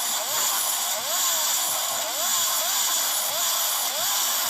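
Yamaha RX two-stroke motorcycle engine through an aftermarket underbelly exhaust, revved in quick repeated throttle blips, its pitch rising with each one, about twice a second, over a steady raspy hiss.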